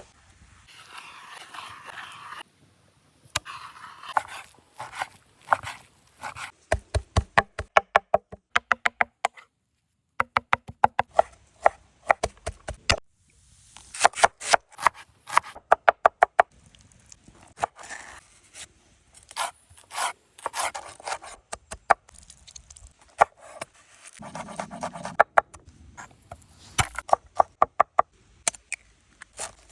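Knife chopping on a cutting board in quick runs of sharp strikes, several a second, broken by short stretches of scraping and rustling.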